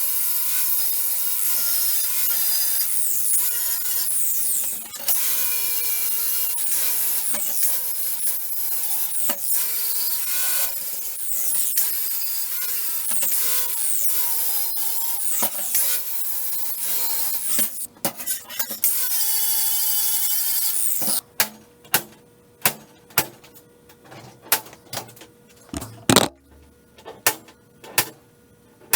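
A power tool working steel, its whine repeatedly dropping under load and recovering, until it stops about 21 seconds in. A string of sharp knocks follows, roughly one a second.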